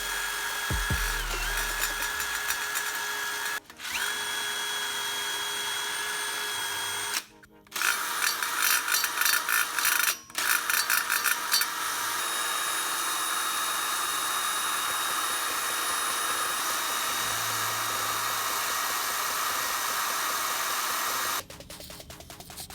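Electric power tool motor running in several runs with short stops, a steady whine at first, then a few seconds of rapid stuttering, then a longer steady run that cuts off near the end.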